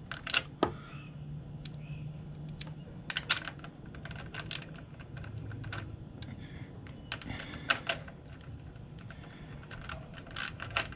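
Ratchet with a socket clicking in short, irregular runs of clicks while the oil drain plug is being loosened.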